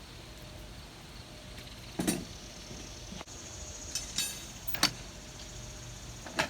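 Four short, sharp knocks spaced unevenly over a low, steady hum.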